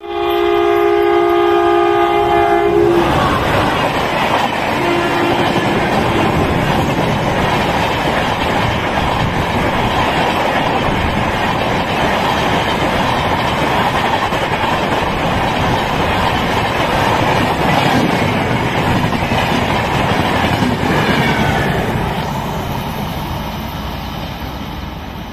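Electric locomotive horn sounding a chord for about three seconds as an Indian Railways express passes at speed, with a short second note about five seconds in. The steady roar of the coaches' wheels on the rails follows and fades near the end as the train draws away.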